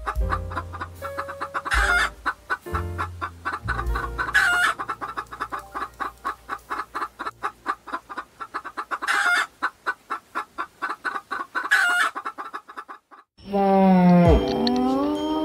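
An animal calling in a rapid, even run of short calls, several a second, over soft background music. Near the end, after a brief pause, a long call with a bending, wavering pitch begins.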